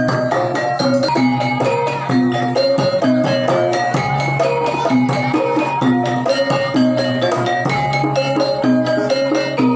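Javanese gamelan music: struck metal keyed instruments ring out a repeating melody over steady drumming.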